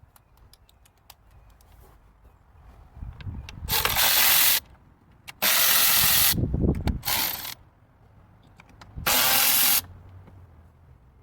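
Four short bursts of hissing spray, each lasting under a second, with light clicks and handling noises between them.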